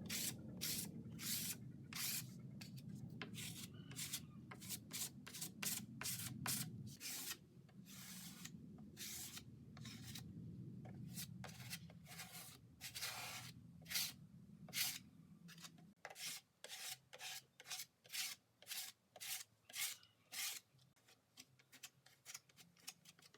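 Hand sanding of plywood: sandpaper rubbed back and forth in quick hissing strokes, about two a second, with a low hum under the first two-thirds. In the last several seconds the strokes come singly with short gaps between them.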